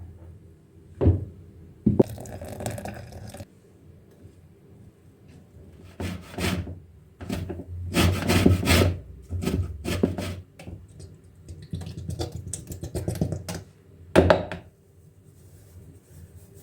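Kitchen food-preparation sounds: two sharp knocks about one and two seconds in, then several bursts of scraping and rubbing, each about a second long, with a last knock near the end.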